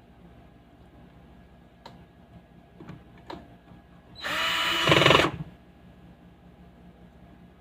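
A few light clicks, then a small motor runs loudly for about a second and stops.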